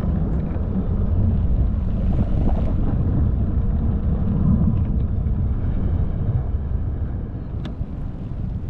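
Steady low wind rumble on the microphone during a bicycle ride.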